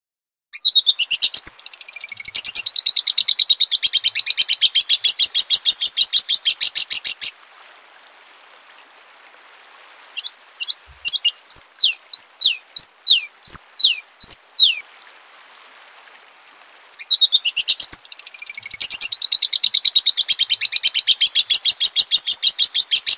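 Recorded songbird song: a rapid trill of quickly repeated chipping notes lasting about seven seconds, then about a dozen separate down-slurred whistled notes, then the same rapid trill phrase again near the end. A faint steady hiss fills the pauses.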